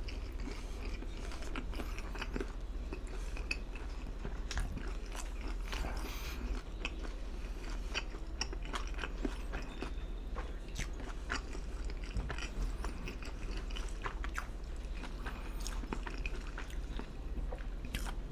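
Close-miked chewing of a mouthful of pizza: wet mouth clicks and small crunches of the crust, irregular and continuous, over a faint steady low hum.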